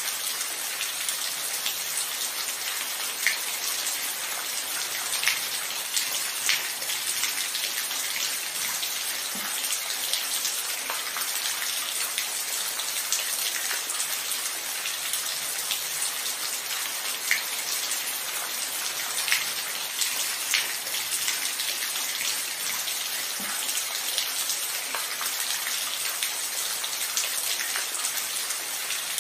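Steady rain falling, an even hiss with scattered louder individual drops landing close by. No thunder.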